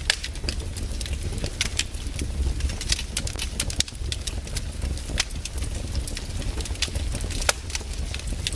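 Wood campfire crackling: irregular sharp pops and snaps of burning wood, several a second with some louder ones, over a steady low rumble of the flames.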